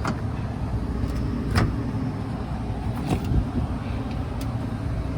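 Steady low rumble of running rooftop package air-conditioning units, with four sharp clicks and knocks spread across it.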